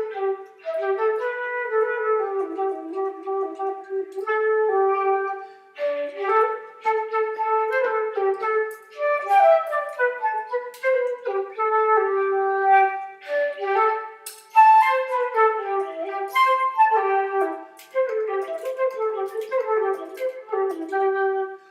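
A flute-like wind instrument playing a solo melody, one note at a time, in phrases broken by short pauses.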